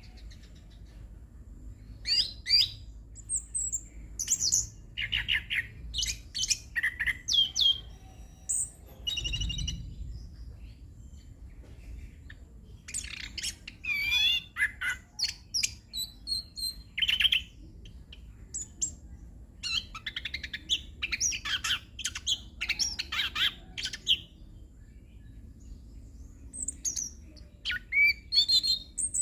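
Chestnut-capped thrush singing a long, varied run of quick whistled and gliding notes in bouts separated by short pauses. A brief low thump sounds about a third of the way in.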